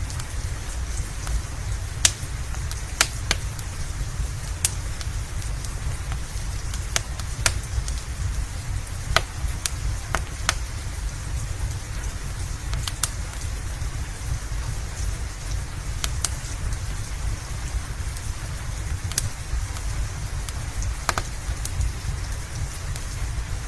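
Steady rain with a low rumble, overlaid by sharp, irregular pops and crackles from a wood fire every second or two.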